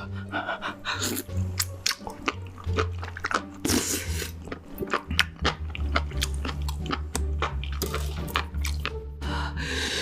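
Close-miked crunchy chewing and biting, with many sharp crunches in quick succession, over background music with a steady bass line.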